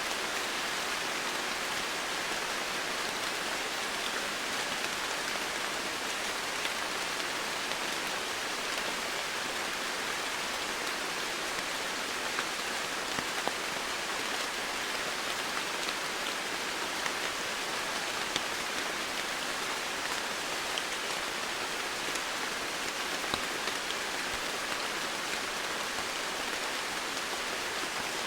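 Steady heavy rainfall, an even hiss with scattered individual drops ticking now and then.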